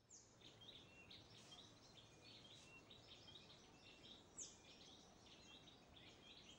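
Faint outdoor ambience of small birds chirping and twittering. Two quick downward-swooping calls stand out, one at the start and a louder one about four seconds in.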